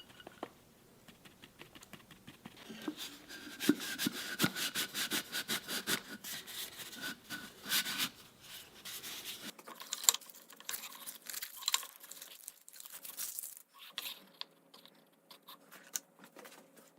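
Irregular scraping, crinkling and small clicks of hand work on a workpiece, busiest through the first half. The character changes abruptly a little past halfway, to sparser, lighter scratches and taps.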